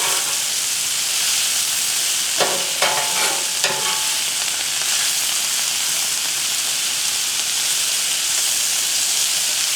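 Sliced mushrooms, red onions and green bell peppers sizzling steadily in vegetable oil on a Blackstone flat-top griddle. A few short clicks come a little over two seconds in.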